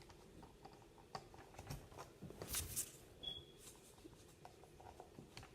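Faint handling noise from a plastic Nerf dart clip and foam darts: scattered light clicks and rustles, with a brief louder scrape a little over two seconds in.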